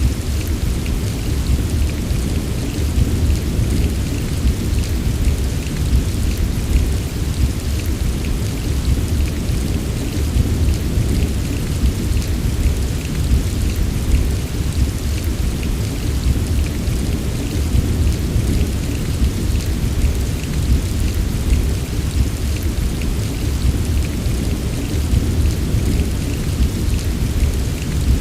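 Heavy rain falling steadily, a dense patter of drops over a constant deep, low rumble.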